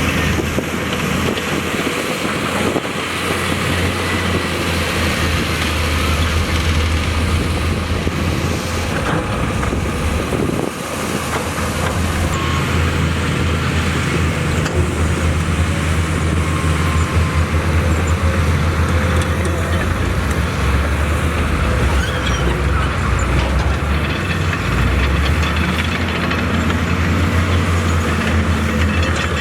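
Diesel engine of heavy earthmoving machinery running, a steady low drone whose note dips briefly near the middle and shifts a few times later.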